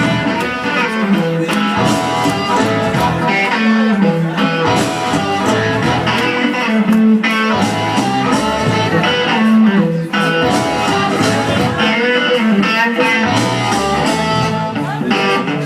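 Live electric blues band playing a blues number, with guitar prominent over a bass line that repeats about every second and a half.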